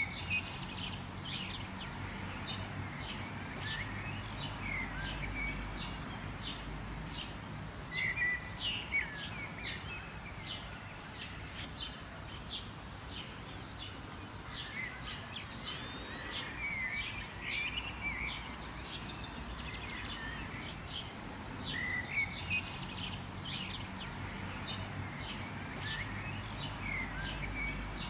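Several wild birds chirping and trilling in quick, overlapping short calls, over a steady low background rumble.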